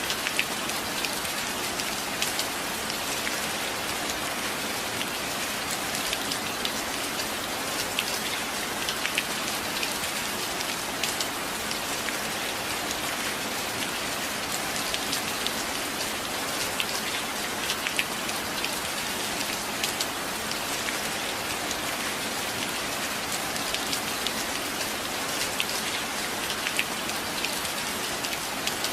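Steady rain: an even hiss with many single drops ticking sharply over it, and no thunder.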